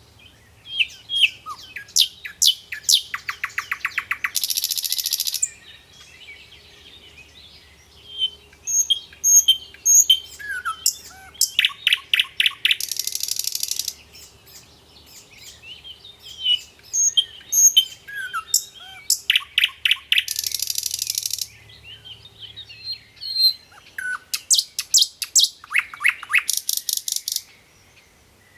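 Sikatan londo songbird singing in repeated loud phrases, one about every eight seconds. Each phrase has sharp chirps and sliding whistles, a fast clicking trill, and a harsh buzzy rasp of about a second.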